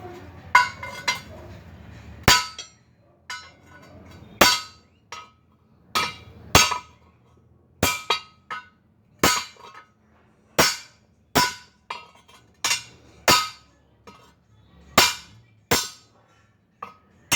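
Steel being struck over and over with a hammer: sharp blows at an uneven pace of about one a second, each ringing briefly at a metallic pitch.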